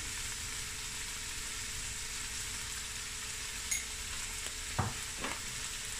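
Chopped onions, garlic and ginger frying in oil, a steady sizzle throughout, with a few faint knocks about four to five seconds in.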